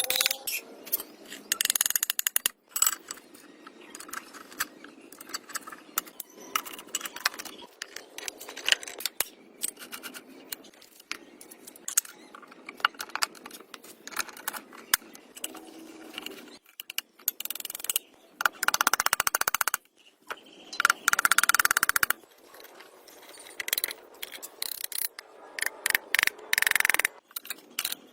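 Irregular scraping and clicking, with a few longer bursts of harsh scraping noise about two-thirds of the way through and again near the end.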